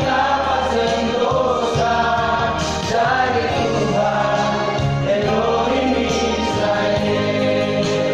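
A vocal group singing a gospel song together in harmony, over low sustained accompaniment notes that change every second or so.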